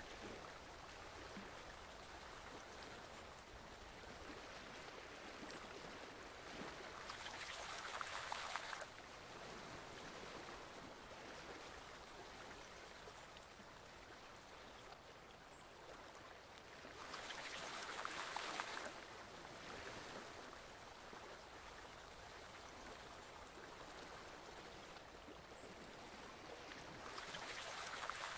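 Forest stream water flowing, a steady faint rush that swells louder for a couple of seconds about every ten seconds.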